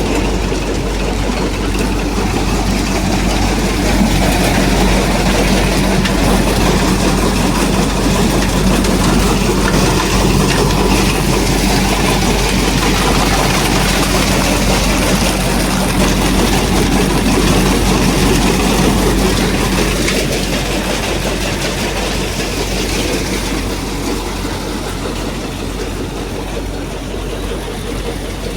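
Tractor-driven thresher running steadily: a loud, continuous mechanical drone with a low hum that eases slightly in level over the last third.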